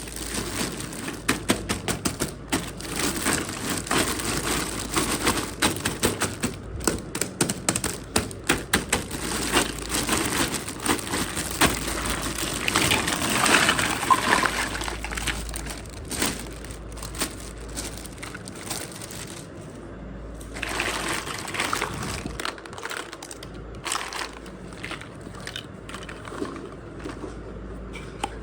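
Small miniature toy kitchen pieces and their packaging being handled: many sharp clicks and taps, with a denser stretch of rustling about halfway through, then sparser taps.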